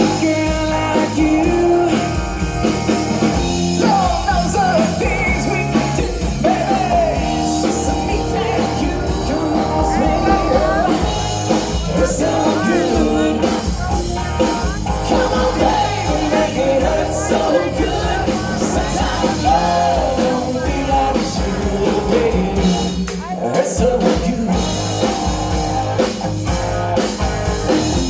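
Rock band playing live: a singer over drums, bass and guitar, in a steady rock-and-roll beat.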